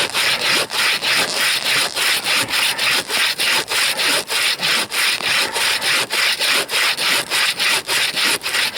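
Bow saw cutting through frozen wood in steady back-and-forth strokes, about three a second, each a dry rasping rub of the teeth in the cut.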